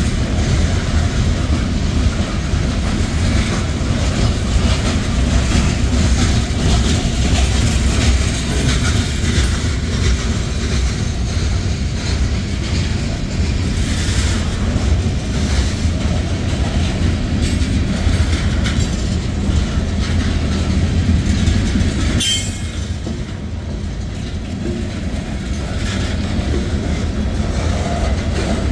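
Freight train's covered hopper cars rolling past, a steady deep rumble with the clatter of steel wheels over the rail joints. A brief sharp click comes about three-quarters of the way through, after which the rumble eases a little.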